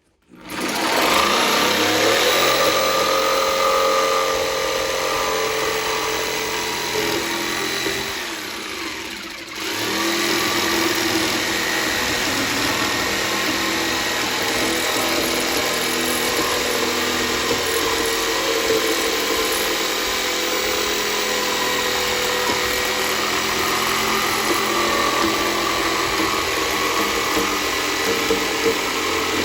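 Small handheld power saw running while cutting through a wooden board, easing off briefly about eight seconds in and then cutting on steadily.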